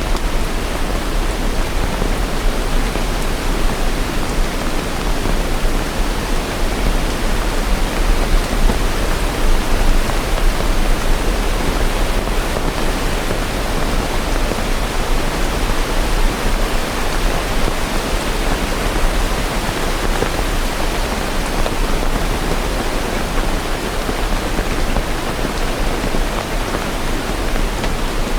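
Steady rain, an even, unbroken hiss with no separate drops or thunder standing out.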